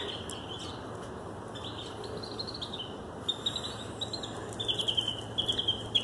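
A songbird singing: quick runs of short, high chirping notes, starting about a second and a half in and growing louder near the end.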